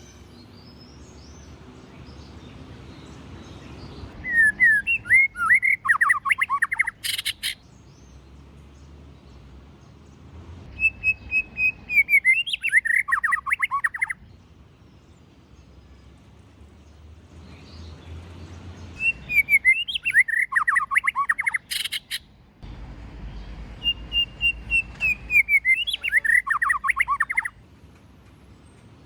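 White-rumped shama singing four phrases. Each opens with clear whistles and breaks into a rapid run of short, varied notes. A sharp click follows the first and third phrases.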